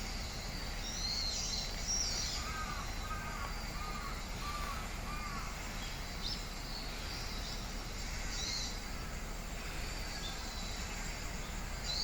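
Wild birds calling and singing in trees: high chirps and trills scattered through, and a run of about five short, lower notes from about two and a half to five and a half seconds in, over a steady low background noise.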